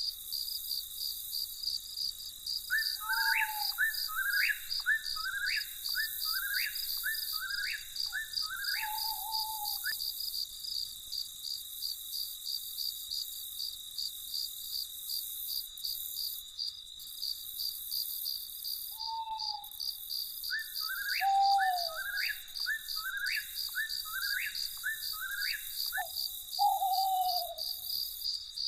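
Crickets chirping steadily in a fast, even trill, with a bird calling over them in two runs of quick repeated notes, one starting a few seconds in and another after about twenty seconds, and a few lower down-slurred calls among them.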